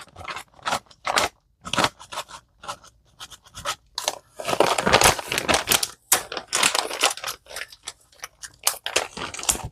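Bacon bits being added to the chicken salad: an irregular run of short scraping, rustling and crunching sounds from the package and the bits, thickest in the second half.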